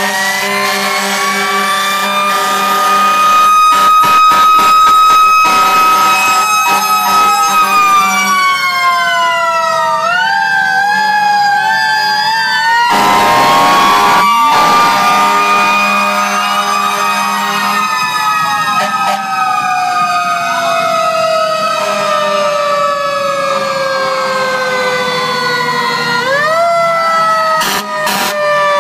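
Several fire truck sirens wailing, slowly rising and falling in pitch and overlapping one another, with a brief loud blast about thirteen seconds in.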